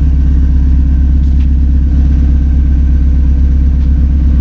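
Mazda NB Miata's four-cylinder engine idling steadily through its ISR aftermarket exhaust, loud, with even low exhaust pulses. The hole in the exhaust has just been welded shut, so it no longer sounds like a diesel.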